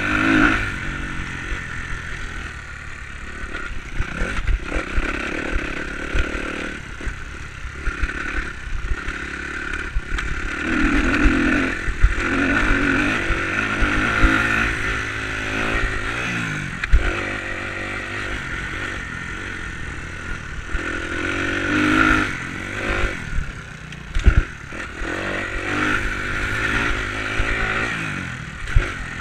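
Enduro motorcycle engine revving up and falling back again and again as the bike is ridden along a dirt track, with clattering and a few sharp knocks from the bike over rough ground.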